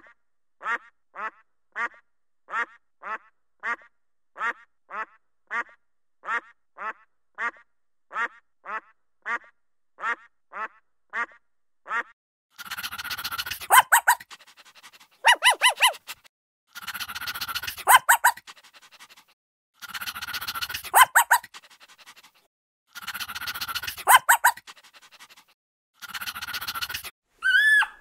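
Mallard duck quacking in a steady run of short quacks, about two a second, for roughly the first twelve seconds. Then a dog calls in noisy bouts of a second or two each, with short pauses between them.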